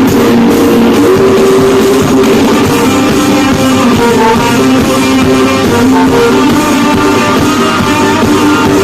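Loud amplified live band music with guitar and drum kit, held notes over a steady beat.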